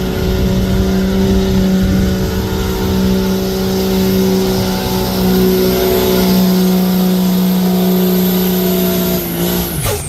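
Turbodiesel pickup engine held at high, steady revs under full load, pulling a weight sled, with a high whine over it. Near the end the revs drop sharply as the throttle is let off.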